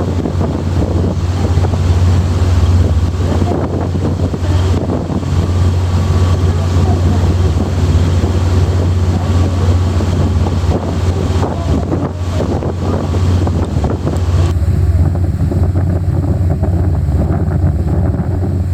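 Sightseeing boat's engine running with a steady low drone as the boat cruises, with wind buffeting the microphone and rushing water. About fifteen seconds in the hiss thins out while the engine drone carries on.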